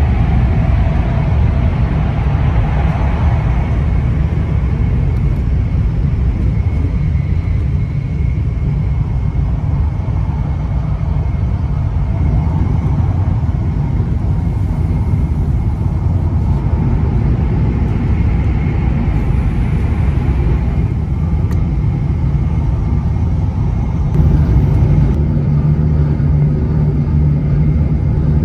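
Passenger train running: a loud, steady low rumble, with a low hum growing stronger about 24 seconds in.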